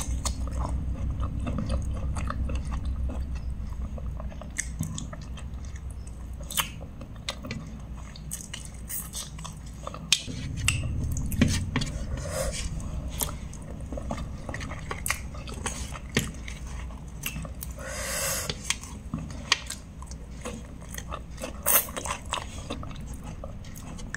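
A person chewing and smacking her lips close to the microphone while eating dry chicken curry by hand, with many short, scattered wet clicks.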